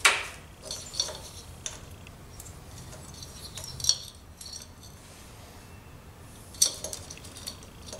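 Scattered light clicks and clinks as a spark plug and a zip tie are handled against a moped's engine, the sharpest right at the start and a few more about 4 and 6.5 seconds in.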